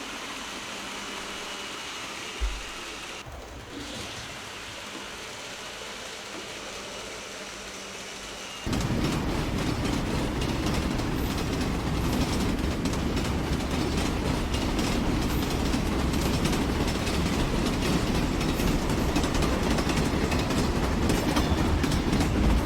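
A train running on rails, with a dense clicking from the track. It gets abruptly much louder about nine seconds in.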